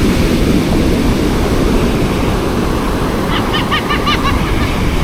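Large ocean waves breaking in steady surf with wind on the microphone. About three seconds in, a quick run of about eight short, high calls cuts through the surf.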